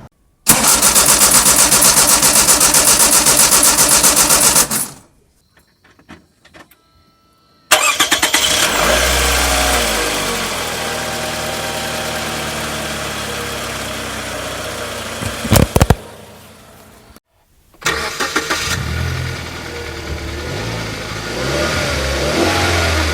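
Car engines starting in separate takes. A loud, rapidly pulsing start cuts off after about four seconds. After a pause, an engine catches, revs and settles to idle; after a second pause, another engine catches and revs up and down.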